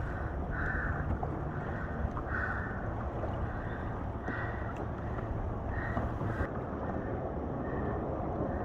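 Wind rumbling on the microphone over water moving around a kayak in an ocean swell, with a soft splash about every two seconds.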